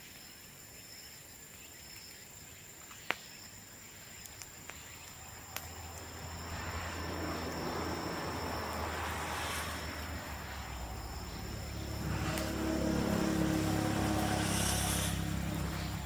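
Steady high insect trilling with a single sharp pop about three seconds in, then a low engine-like rumble that builds from about halfway and is loudest near the end, like a motor vehicle passing.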